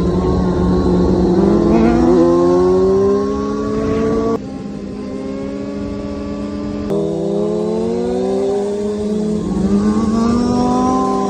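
Motorcycle engine running and revving, its pitch climbing and falling, with sudden jumps in sound about four and a half and seven seconds in.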